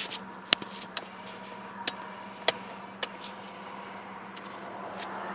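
Sharp clicks of switches and controls being worked in the cab of a Mitsubishi Montero, about five in the first three seconds, over a steady hum. Near the end a motor sound swells slightly, as if the windshield wipers are starting.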